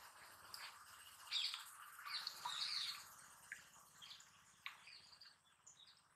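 Faint small-bird chirps and tweets: scattered short high calls, loudest and busiest between about one and three seconds in.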